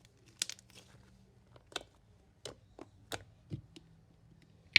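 Stiff, sticky slime being stretched and squeezed by hands, giving a string of short, sharp clicks and pops.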